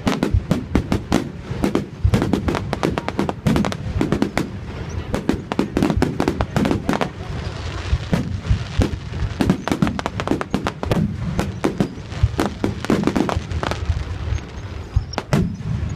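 Fireworks bursting in a rapid, continuous barrage of sharp cracks and bangs, with booming rumble beneath.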